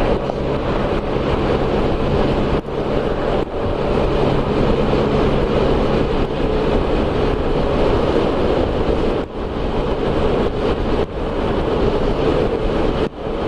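Can-Am Spyder RT's 1330 cc three-cylinder engine running under way, with wind rushing over the microphone. The sound dips briefly about five times.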